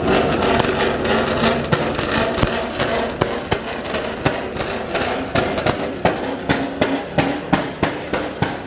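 Car engine running, with a regular series of sharp clicks, about two to three a second, starting about halfway through.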